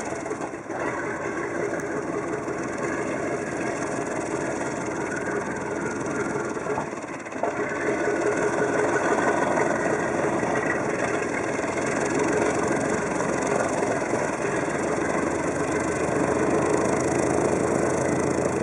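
Piston warbird aircraft engine running steadily, with a short dip about seven seconds in, after which it runs louder.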